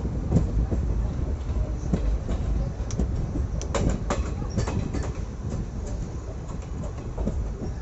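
Passenger train coach running along the track: a steady low rumble with irregular clicks and rattles from the wheels over the rail joints, bunched together about halfway through.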